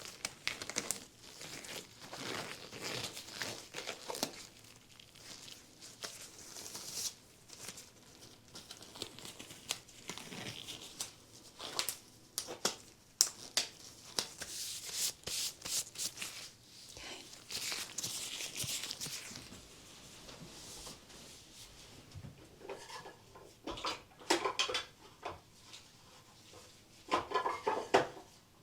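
Nitrile gloves being pulled on and worked over the hands, close up: soft irregular crinkling and rubbing of the thin rubber, with a few sharper snaps, the loudest near the end.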